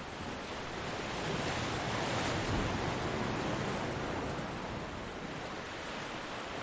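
Ocean waves breaking on a beach: a steady surf wash that swells to a peak a couple of seconds in and then eases back.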